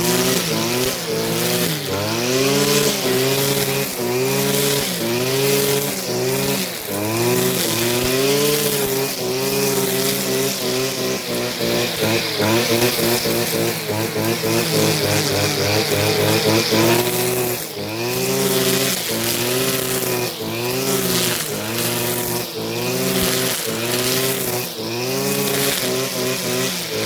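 Small petrol engine cutting tall, overgrown grass, its pitch repeatedly dipping and recovering about once every second or two as the grass loads it.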